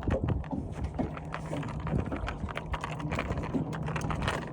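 Fishing reel clicking rapidly and irregularly as a large blue catfish is played on rod and reel, over a steady low hum.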